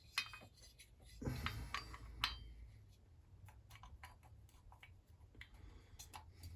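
Small metal chainsaw parts clinking and clicking as they are handled on the bench: a sharp click near the start, a louder rattle with another sharp click about two seconds in, then scattered light ticks.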